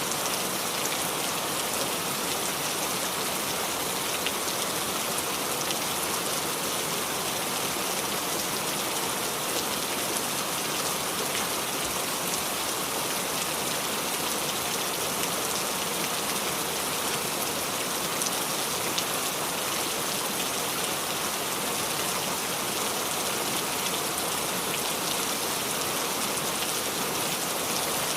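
Steady rain falling and dripping onto the leaves of a small tree, a dense even patter with scattered drop ticks.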